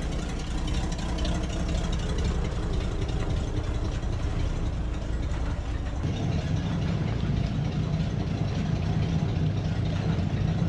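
The 1955 GMC 100's V8 running steadily. About six seconds in, its note moves up and stays higher.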